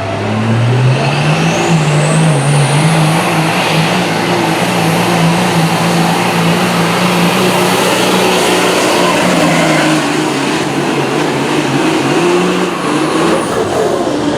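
Modified diesel pickup engine at full throttle pulling a sled: it revs up sharply in the first second, then holds high and nearly steady, wavering slightly, for the rest of the pull, with a high whistle climbing over the first few seconds.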